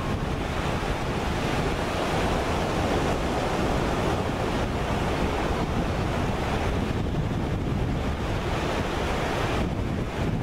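Steady ocean surf with wind buffeting the microphone.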